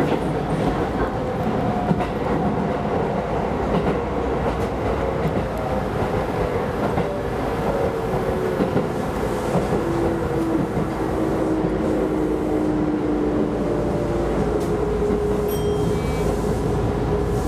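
Keisei Line electric commuter train running along the track, a steady rumble of running noise with whining motor tones that slide and shift in pitch.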